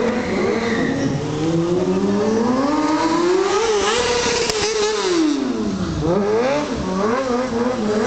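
Kawasaki 636 streetfighter motorcycle's inline-four engine, held at rising revs for about four seconds, then dropping away, followed by a run of quick throttle blips as the stunt bike is ridden.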